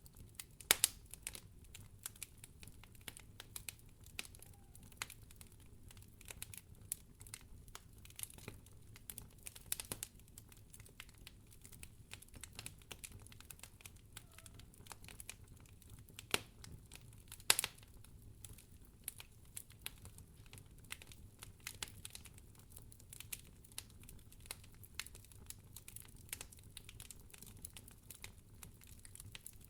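Wood fire crackling in a fireplace: a steady run of small irregular snaps and pops over a low hum, with a few louder pops about a second in and a little past the middle.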